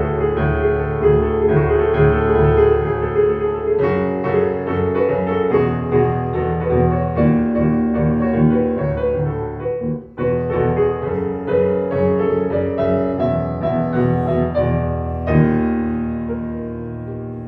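Solo piano improvising dense, sustained chords with a heavy low register, breaking off briefly about two-thirds of the way through, then striking a new chord that slowly fades near the end.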